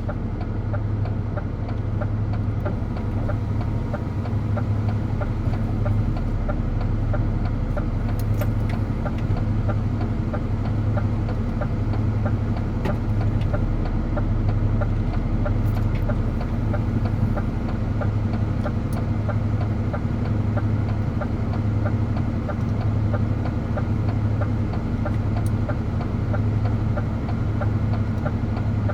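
DAF truck's diesel engine running steadily while driving, a low drone that swells and fades about once a second.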